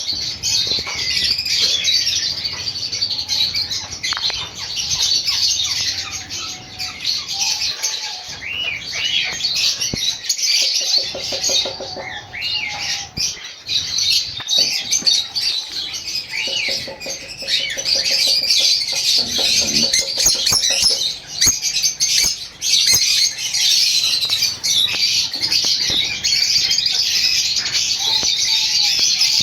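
A group of lovebirds chattering: a dense, unbroken stream of high chirps and squawks. A lower, rattling call cuts in briefly twice near the middle.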